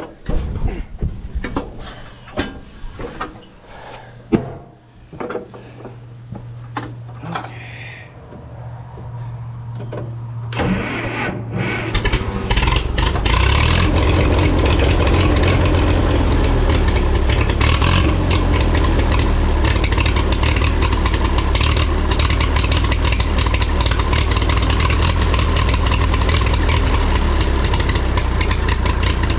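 A few clicks and knocks, then the freshly tuned-up 1954 Minneapolis-Moline UB tractor engine starts about ten seconds in, builds up, and settles into a steady loud run.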